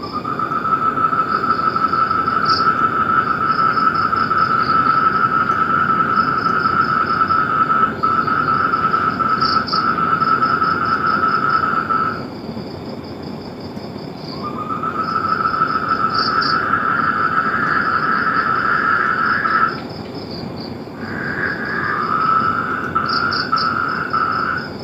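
Frog and insect chorus: long, steady trills of several seconds each, breaking off about halfway through and again near the end, with a rhythmic high-pitched chirping repeating throughout over a constant hiss.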